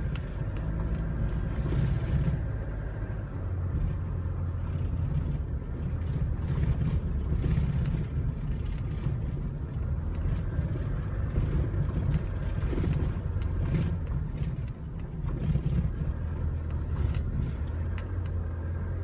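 A small 1-ton truck's engine and road noise heard from inside the cab, a steady low rumble with occasional light knocks and rattles.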